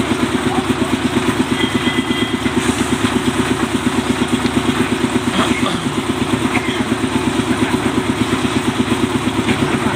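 A small engine running steadily close by, with a fast, even throb.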